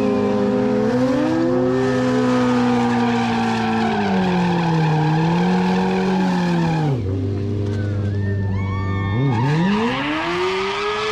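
Sport bike engine held at high revs while its rear tyre spins and squeals against the pavement. About seven seconds in the revs drop suddenly to idle, then near the end the engine is revved back up to high revs.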